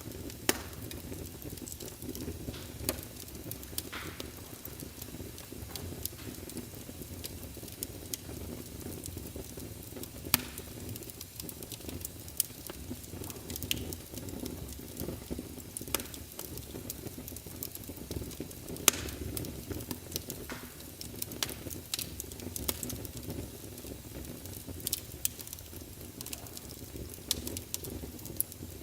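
Wood fire burning in a fireplace: a steady low rumble and hiss of the flames with irregular sharp crackles and pops from the burning logs.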